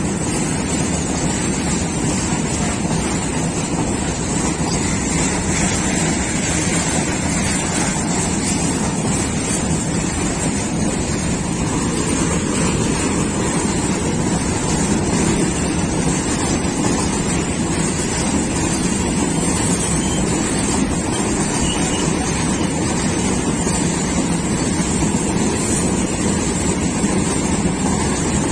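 Freight train of tank wagons rolling past on the track: a steady, even rumble of wheels on rail.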